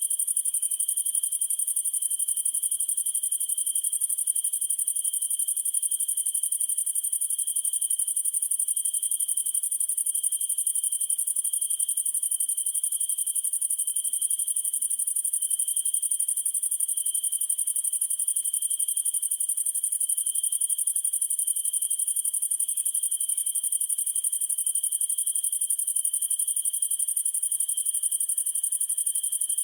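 Night insect chorus of crickets, with a steady very high-pitched pulsing trill and a lower continuous trill that swells and fades gently.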